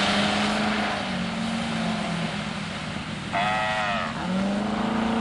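Chevrolet Corvette's V8 engine pulling through an autocross course, dropping in pitch twice as the driver eases off, then revving up again as it accelerates about four seconds in. A short, high-pitched cry of unclear source sounds briefly about three seconds in.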